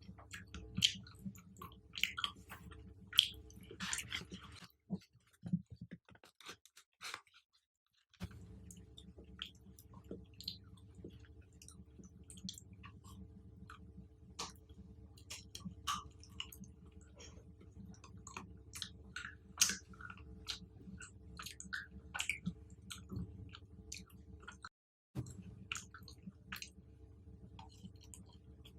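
Close-miked chewing of chocolate-covered fruit: wet mouth sounds with many short, crisp crunches and clicks. The sound drops out to dead silence for about three seconds near the five-second mark and again briefly near the end.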